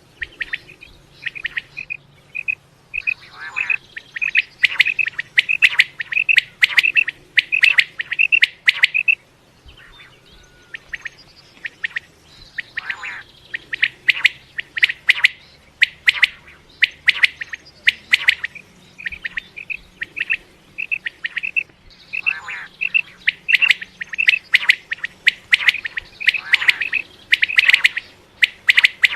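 Common quail calling over and over, short sharp notes repeated in quick runs lasting several seconds, with brief pauses between the runs.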